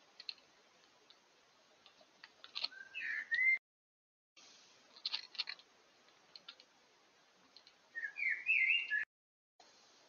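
Eurasian jay pecking at seed on a feeder dish, its bill giving sharp clicks and taps, with short whistled bird calls gliding upward about three seconds in and again near the end. The sound cuts out briefly twice.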